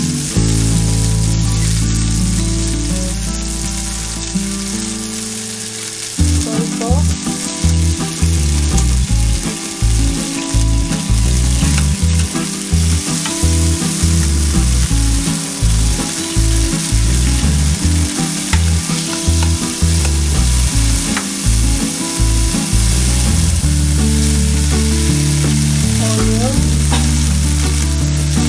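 Tomatoes and garlic sizzling in hot oil in a nonstick frying pan, a steady hiss. From about six seconds in, a spatula stirs and knocks irregularly in the pan for much of the stretch.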